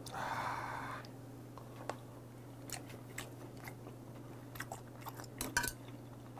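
A person chewing a mouthful of raw bigeye tuna sashimi, with scattered soft, wet mouth clicks through the middle and latter part. It follows a short breathy sound in the first second.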